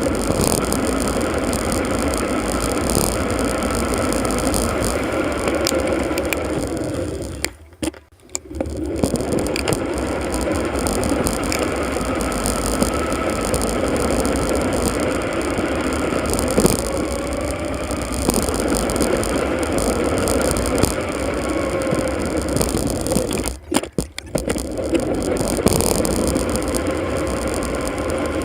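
Bicycle ride sound played back four times sped up: a steady rush of road and wind noise with a faint wavering whine, dropping away sharply twice for about a second.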